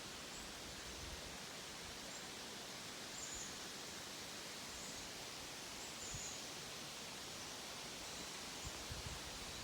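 Outdoor ambience: a steady hiss with faint, short high chirps every second or so, and a few soft low knocks near the end.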